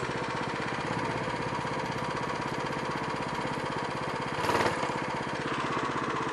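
Small single-cylinder minibike engine idling steadily to keep it warm, with one short louder burst about four and a half seconds in.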